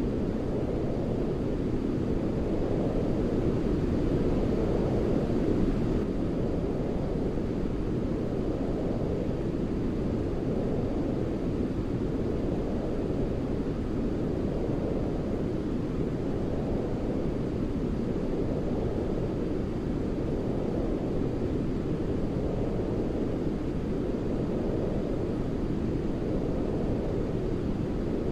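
Continuous sleep noise for soothing a baby: a steady, deep hiss weighted to the low end, like brown noise, swelling gently every few seconds.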